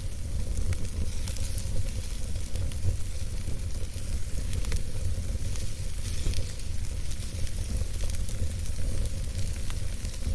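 Campfire crackling and hissing, with many small pops scattered throughout over a steady low rumble.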